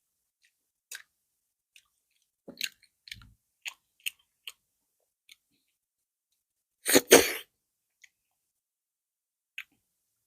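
Close-miked eating sounds as a person chews fufu with okra soup: scattered wet mouth clicks and smacks. About seven seconds in comes one loud, brief double burst, the loudest sound here.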